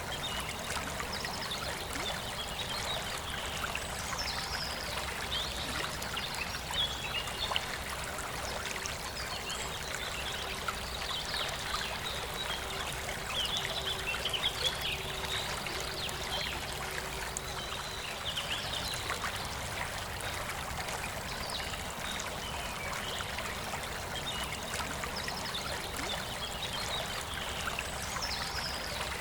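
Forest river flowing steadily, with birds singing in short bursts of chirps in the background.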